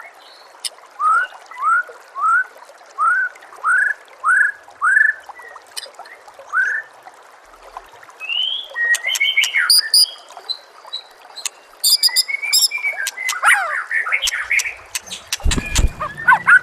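White-rumped shama (murai batu) singing. It first repeats a short rising whistle about nine times, then breaks into a fast, varied phrase of high notes and clicks. A steady hiss of trickling water runs underneath, and there is a brief low thud near the end.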